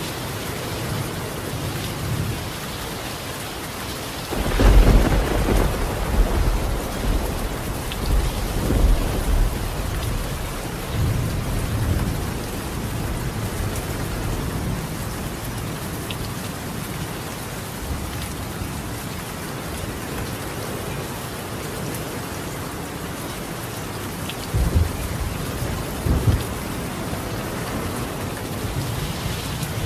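Steady rain falling on a clay-tiled roof. A deep rumble of thunder starts about four seconds in and rolls on for several seconds, and shorter rumbles come near the end.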